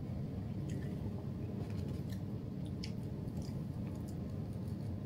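Crunchy snack chips being chewed: a few faint crisp crackles over a steady low room hum.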